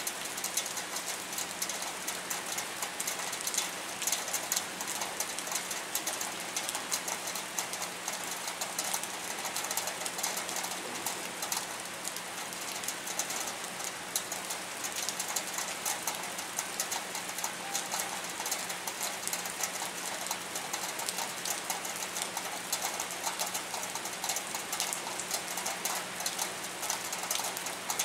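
Steady rain falling: a dense, even patter of drops, with a faint steady low hum underneath.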